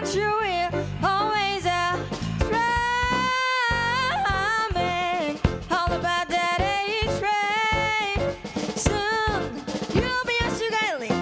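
A jazz quartet playing a swing tune, with a singer's voice gliding up and down over piano, bass and a drum kit with sharp snare and rimshot hits.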